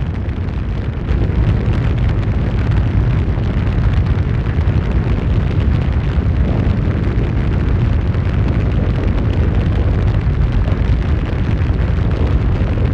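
Tornado wind roaring hard across the microphone: a loud, steady, rumbling roar that gets louder about a second in.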